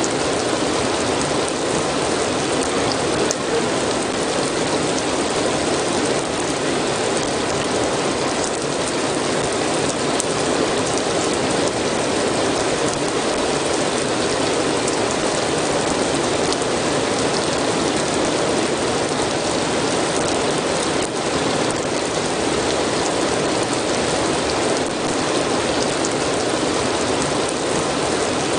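Steady rain, a dense even patter with faint scattered drop ticks.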